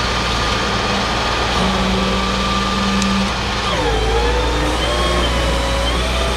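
Tow truck's engine running steadily with a constant hum, joined about four seconds in by a wavering whine that dips and then rises.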